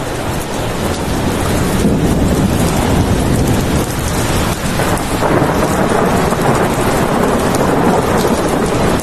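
Heavy rain falling in a steady dense hiss, with a deep rumble underneath that swells and fades like rolling thunder. It builds up over the first couple of seconds.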